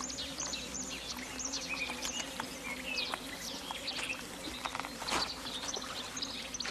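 Outdoor ambience of small birds chirping: many short, high chirps scattered throughout, over a steady low hum. There is a brief louder burst of noise about five seconds in.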